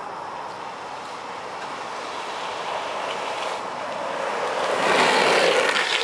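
Longboard wheels rolling on asphalt with a steady rushing roar that swells and grows louder about five seconds in, with a few sharp clicks near the end.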